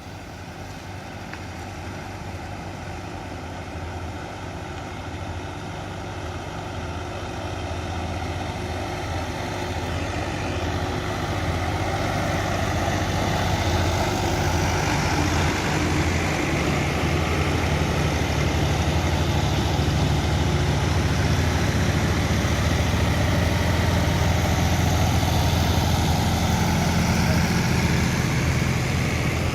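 A heavy engine running steadily, growing louder over roughly the first twelve seconds and then holding level.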